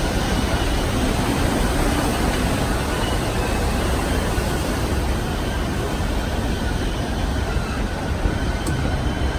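Passenger train car rolling along the rails, heard from on board: a steady deep rumble and running noise, with faint thin steady tones above it.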